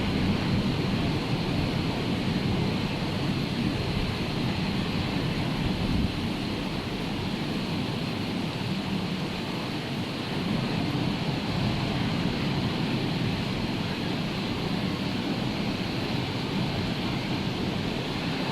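Rough, storm-driven sea surf: a steady rushing wash of breaking waves that swells and eases slightly, with wind on the microphone.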